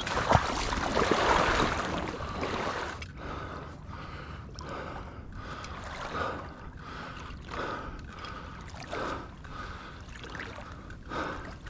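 Water sloshing and splashing as a person moves through it. The first few seconds are a louder rushing slosh with a sharp knock near the start, then a run of separate splashes roughly once a second.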